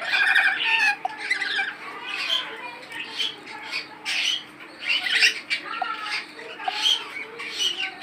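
Caged birds squawking and chirping, one short harsh call after another, about once a second.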